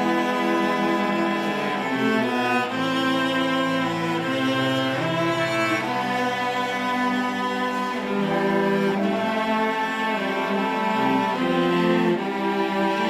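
A school string orchestra playing, with cellos, double basses and violins sustaining notes in a slow, flowing passage.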